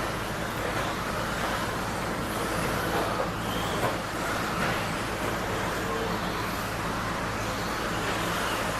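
1/10-scale electric stadium trucks with 13.5-turn brushless motors racing on an RC track: a steady wash of motor whine and tyre noise.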